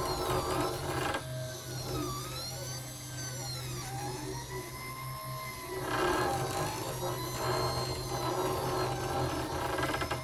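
Solidoodle 2 3D printer running a print: its stepper motors whine in tones that glide up and down in pitch as the axes speed up and slow down, over a steady low hum. A harsher rattling noise comes in for about the first second and again about six seconds in, the kind of rather disturbing sound the owner hears as the head heads back toward the X and Y home positions.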